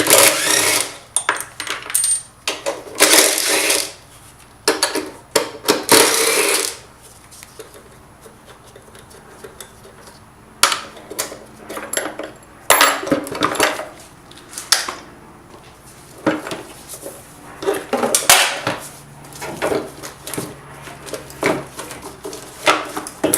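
Hand ratchet with a 10 mm deep socket working the lower intake manifold's bolts loose, with metal clinks of tools on metal. It comes in irregular spells of rapid clicking about a second long, separated by quieter pauses.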